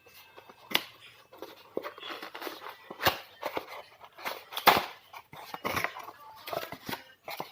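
Irregular clicks, knocks and scrapes of plastic and metal parts being handled while a laser printer is taken apart, with a few sharper knocks about a second in, around three seconds in and near the middle.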